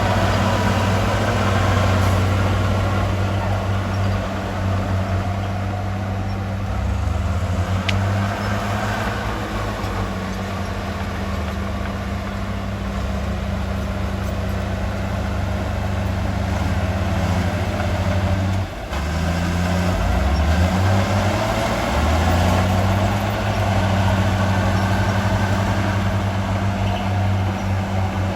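Heavy diesel engine of construction machinery running steadily, its low note stepping up and down several times as the load changes, with a brief dip about two-thirds of the way through.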